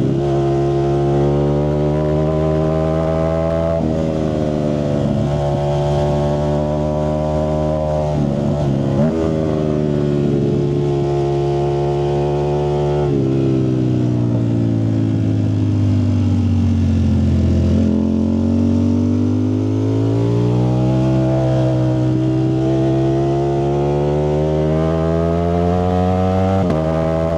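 Ducati Streetfighter V4S's V4 engine running through a Zard exhaust. The note holds steady with a few sudden steps in pitch, then falls slowly for about five seconds near the middle and climbs back up again.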